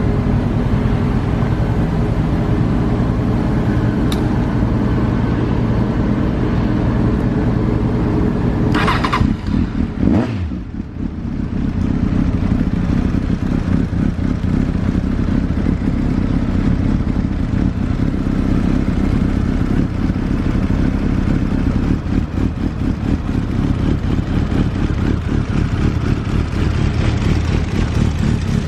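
Honda CB1000SF inline-four motorcycle engine running steadily through an aftermarket WM carbon muffler. About a third of the way in there is one short burst, and the engine note falls away and dips briefly before settling back to a steady run.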